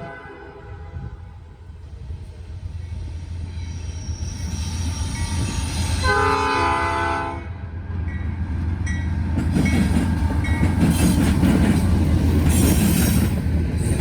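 Norfolk Southern diesel freight locomotive approaching: a steady low engine drone, a horn blast about six seconds in lasting about a second and a half, then the engine rumble growing louder as the train nears.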